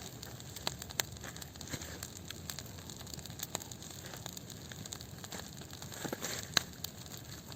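Campfire crackling, with irregular sharp pops from the burning wood.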